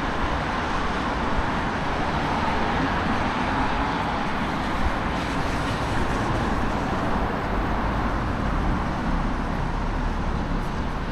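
Steady city traffic noise: road vehicles running along a wet street, a continuous even hiss and rumble with no single event standing out.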